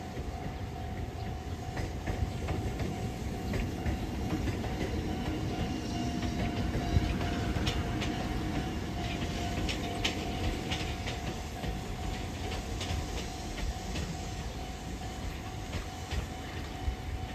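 Electric commuter train running along the line with a low rumble, its wheels clicking over rail joints, the clicks thickest and loudest in the middle.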